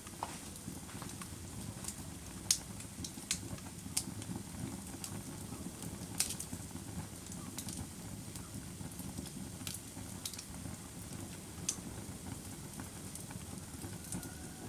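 Wood fire burning: a steady low rumble with irregular sharp crackles and pops, a handful of them standing out.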